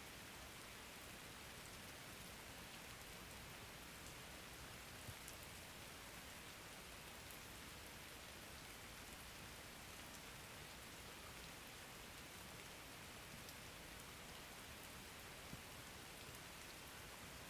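Steady, faint rain: an even hiss of falling rain with occasional soft ticks of single drops.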